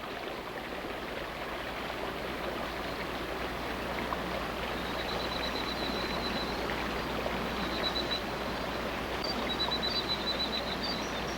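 Steady rush of falling rain and running water. From about halfway through, short trains of high, rapidly pulsed chirps come in and out over it.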